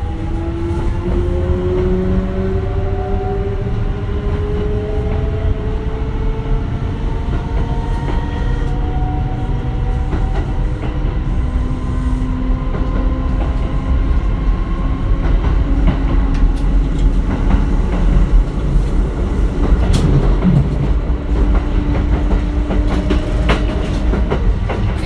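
Kintetsu 1420 series train's Mitsubishi GTO-VVVF inverter and traction motors whining in several tones that climb slowly as the train picks up speed, then settle into steadier tones. Under the whine the wheels rumble, and in the second half they clack over rail joints.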